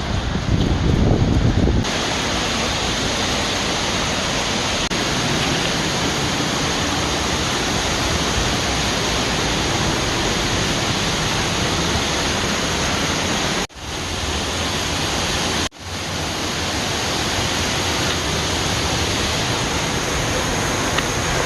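Waterfall running high after heavy rain: a loud, steady rushing roar. A low rumble sits under it for the first two seconds, and the sound drops out briefly twice a little past the middle.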